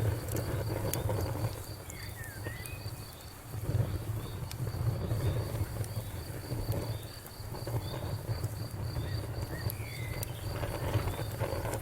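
Wood fire burning in a fireplace: a low steady rumble with sharp crackles and pops scattered through it. A faint high chirp repeats evenly underneath, about three times a second.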